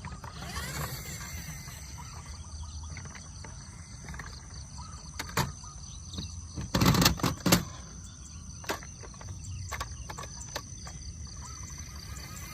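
A scattered run of sharp clicks and knocks, the loudest a short cluster about seven seconds in, over a steady background with thin high-pitched tones.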